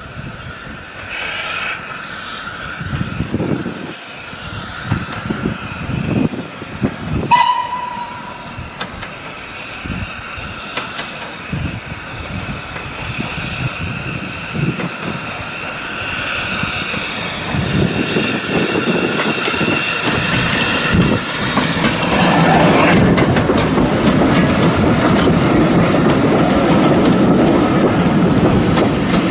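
Steam train on the move: separate exhaust-like beats, a short whistle blast about seven seconds in, then a steady, louder rumble and clatter of wheels on rail as the train draws close and runs past.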